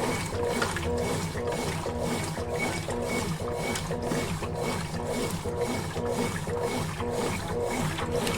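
Consul Facilite 11 kg (CWG11) top-loading washing machine running its wash action: a motor hum that pulses evenly about three times a second as the load is worked back and forth.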